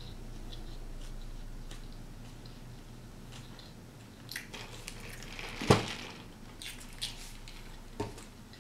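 A person chewing a mouthful of cheeseburger with wet mouth clicks and smacks, close to the microphone. One sharp click a little past halfway is the loudest sound, with a few smaller ones after it.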